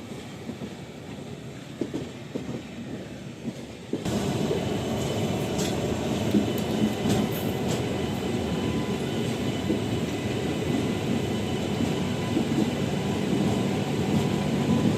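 Passenger train coach running on the track, its wheels rumbling steadily over the rails with a few faint clicks. The noise is quieter for about four seconds, then abruptly steps up louder and stays steady.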